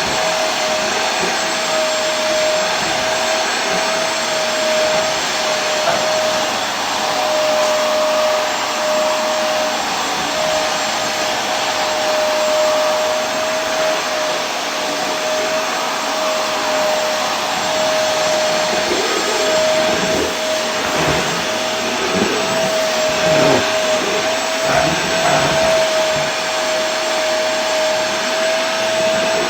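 Vacuum cleaner running continuously: a steady rushing hiss with a constant motor whine, wavering a little in its lower sound in the second half.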